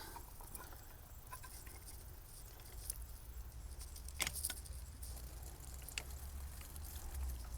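Faint scattered clicks and scrapes of a Woodford Model 17 frost-free spigot's metal stem being twisted and pulled out of the faucet body, three clicks standing out. A low rumble runs underneath and grows near the end.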